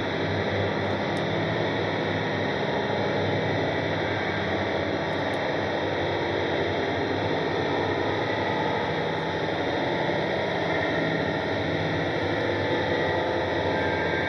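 Noise music: a dense, steady wall of hiss over low droning tones, unchanging in loudness.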